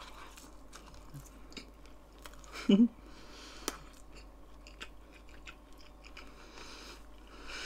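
Close-miked mouth sounds of a person chewing a cheesy veggie-chicken quesadilla: soft wet clicks and smacks throughout, with one short sound of the voice a little under three seconds in.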